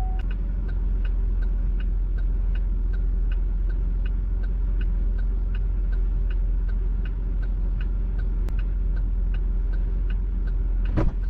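Car engine idling, heard from inside the cabin, with the hazard-light flasher clicking steadily about two to three times a second. A thump near the end.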